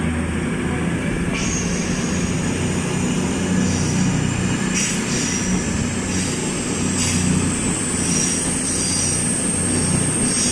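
CrossCountry Class 221 Voyager diesel multiple unit moving slowly through the station: a steady low diesel rumble with thin, high wheel squeals that come and go, one held for several seconds in the second half.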